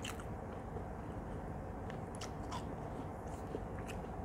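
Close-miked chewing of a fried banana-blossom (mocha) chop, with a scattering of faint sharp clicks.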